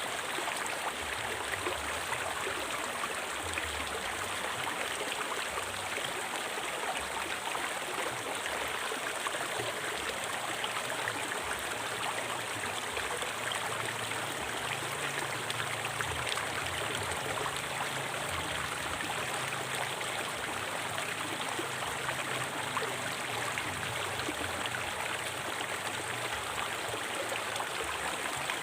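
A river flowing steadily over rocks, a continuous rushing and gurgling of water.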